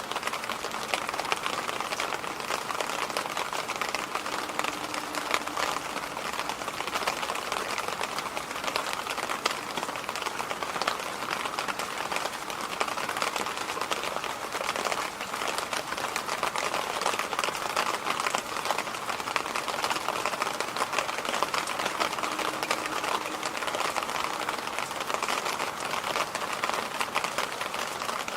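Electric fan running steadily: an even rush of air, strongest in the middle range, with a fast, fine flutter.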